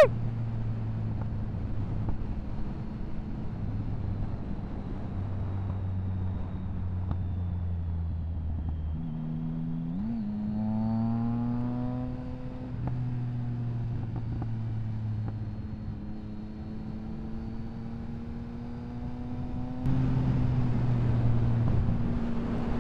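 Motorcycle engine running steadily under way, heard from the rider's seat over a haze of road and wind noise. The engine note shifts about ten seconds in, then its pitch climbs slowly, and it gets louder near the end as the throttle opens.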